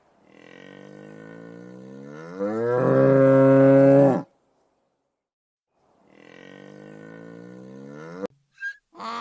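Cattle mooing: two long calls, the first rising in pitch and then held loud, the second quieter and cut off abruptly.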